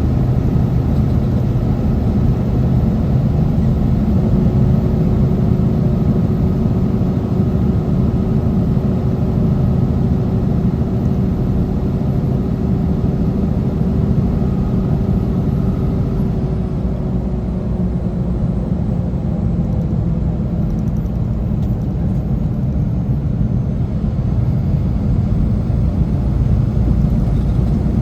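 Semi truck running steadily on the road: a continuous low engine and road rumble, with a faint engine tone that slowly drops in pitch.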